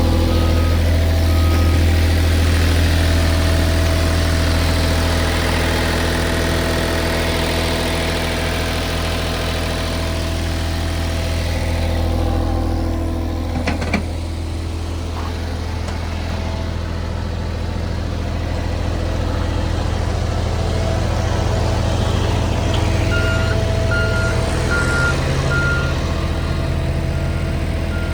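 Kubota D1703 three-cylinder diesel of a compact track loader running steadily. A backup alarm beeps in a regular series at the start and again near the end, and there is a single sharp knock about halfway through.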